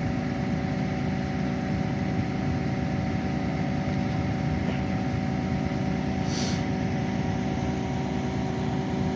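A large vehicle engine idling steadily, with a brief hiss about six and a half seconds in.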